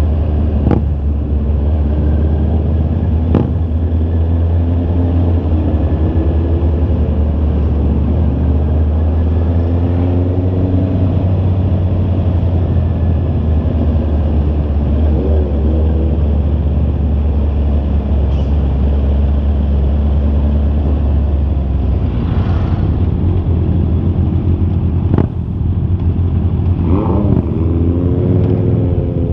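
Honda CB650R inline-four motorcycle engine running on the move, its pitch rising and falling several times with throttle and gear changes, over a heavy steady low rumble that eases about two-thirds of the way in.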